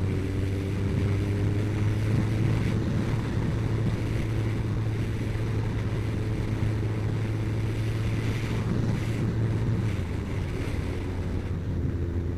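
Motorcycle engine running steadily at cruising speed with wind rushing past; the low engine hum eases slightly about ten seconds in.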